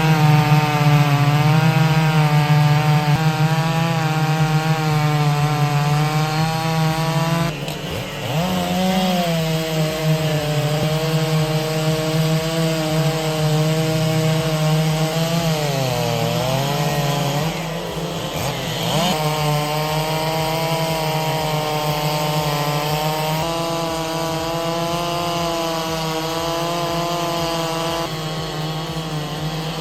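Chainsaw running at high revs while cutting through wood. The engine note sags and recovers a couple of times as the bar takes the load.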